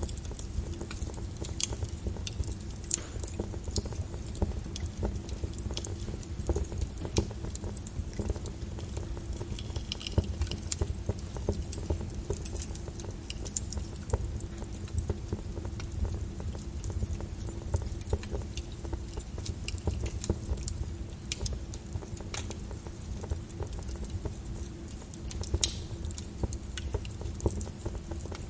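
Wood fire burning in a fireplace, crackling with irregular sharp pops over a low rumble of the flames; one louder pop comes near the end.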